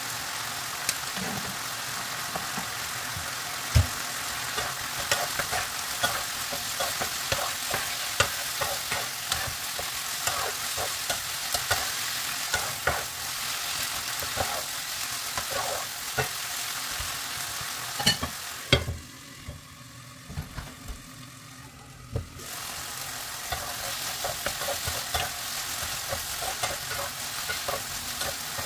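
Chicken breast pieces and tomato sizzling in a frying pan, with a spatula stirring and clicking and scraping against the pan many times. The sizzle drops away for about three seconds about two-thirds of the way through, then comes back.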